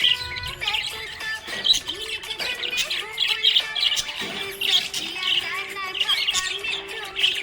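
Pet budgerigars chirping and warbling continuously in rapid, overlapping chirps, with a steady low tone entering about four seconds in.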